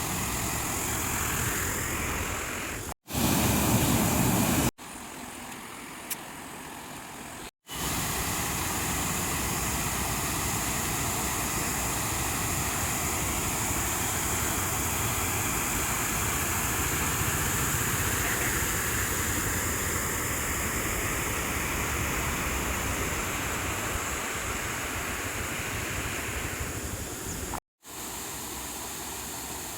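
Steady rushing of water flowing over a check dam after heavy rain, in several clips joined by abrupt cuts, one short stretch near the start louder than the rest.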